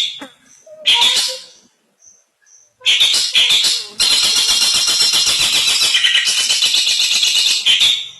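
Long-tailed shrike (cendet) singing: a few short calls at first, then from about three seconds in a loud, rapid, scratchy chattering run lasting about five seconds, part of a song filled with mimicked calls.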